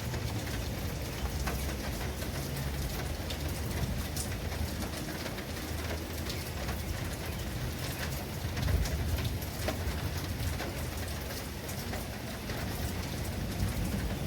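Steady rain falling, with drops pattering on a surface and a low rumble underneath that swells briefly about nine seconds in.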